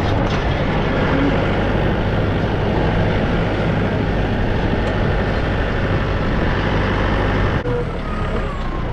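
Farm tractor engine running steadily with a dense mechanical clatter over a low hum; the sound changes abruptly near the end.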